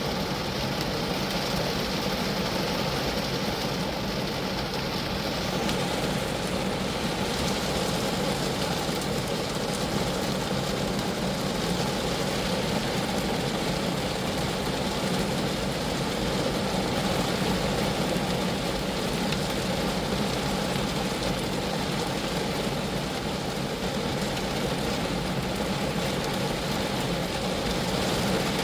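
Rain falling steadily on a Geo Metro car, a dense, even noise without a break.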